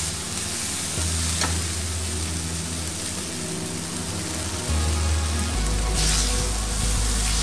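Boiled noodles and chopped vegetables sizzling in a hot pan as they are stirred together with a spatula, with one sharp clink about a second and a half in and the sizzle growing louder near the end.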